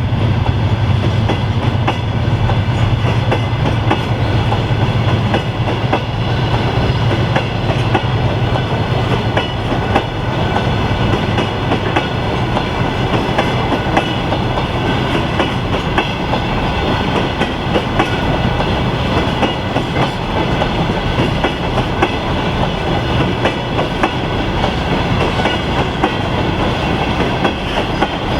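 Freight train wagons rolling past, their wheels clattering steadily over the rail joints, with a low drone fading out over the first few seconds.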